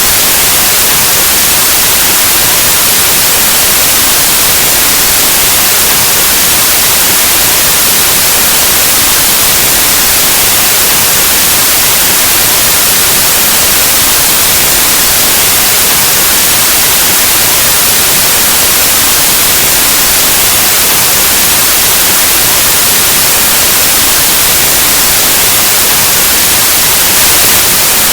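Steady, loud white noise, a static hiss like an untuned analog TV or radio, even and unchanging throughout.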